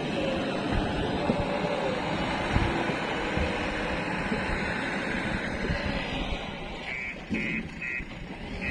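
Heavy diesel machinery running steadily. About seven seconds in, a short high beep starts repeating about two or three times a second.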